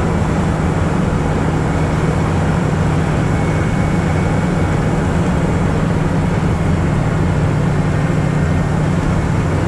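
Sterling water truck's diesel engine running steadily under way in third gear, a low even drone.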